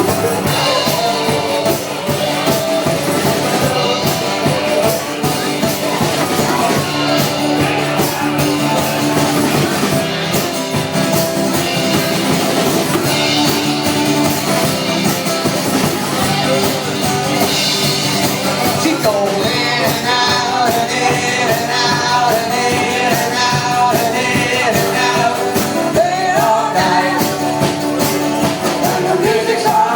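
Rock band playing, with a singer over a steady beat.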